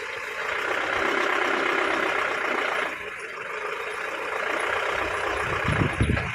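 Kopili River floodwater rushing steadily as it pours in over the bank, a little louder for a couple of seconds near the start. A few low thuds near the end.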